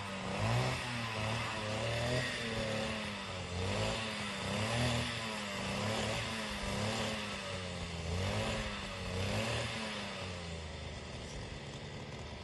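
A motor engine revving up and down over and over, its pitch rising and falling about once a second, then settling near the end.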